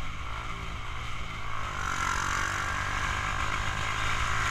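Yamaha Jupiter MX motorcycle with a DBS aftermarket exhaust running on the move, its engine hum mixed with wind and road noise that grows louder about halfway through.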